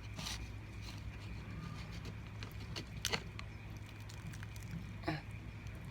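A few faint clicks from crab-leg shells being handled while eating, over a low steady hum.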